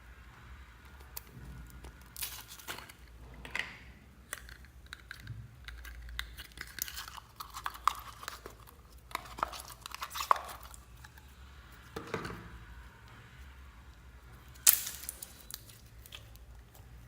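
Slime being squished and mixed by hand, giving irregular sticky crackles and pops, the loudest near the end.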